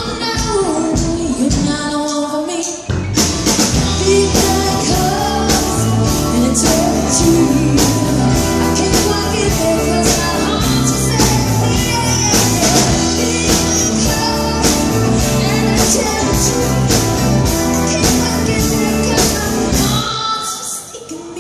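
Live band playing a song with a female lead singer; drums and bass come in fully about three seconds in, and the music stops near the end.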